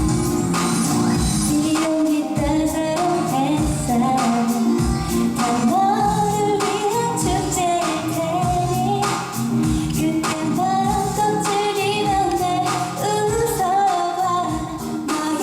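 A woman singing a pop song live over a backing track with a steady beat, in a large hall.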